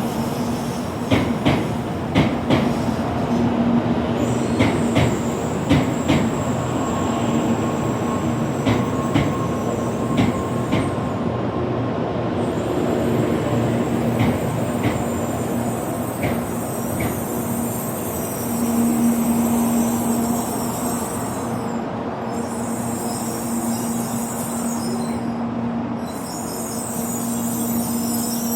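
N700A-series Shinkansen train rolling slowly along the platform as it pulls in: a steady running rumble and hum, with a run of wheel clicks over the track through the first half that die away later.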